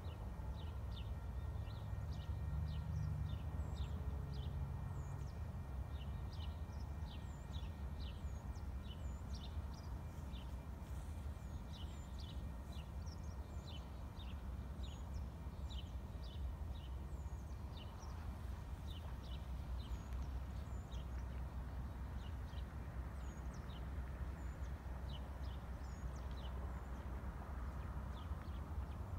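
Small birds chirping in a quick, uneven series of short high chirps, about two a second, over a steady low rumble.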